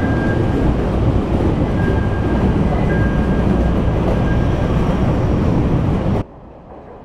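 Steady rumble of a Chicago 'L' rapid-transit train, heard from inside the car, with faint high whines coming and going. It cuts off suddenly about six seconds in, leaving quiet room tone.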